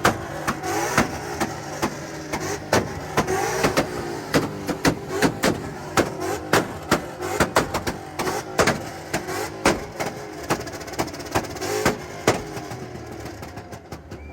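Two car engines revving hard at the same time, the exhaust popping and banging sharply again and again. The revving dies away near the end.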